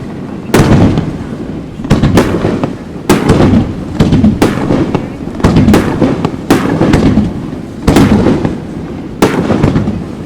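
Aerial fireworks shells bursting in quick, irregular succession, about a dozen loud bangs, each trailing off in a low rumbling echo.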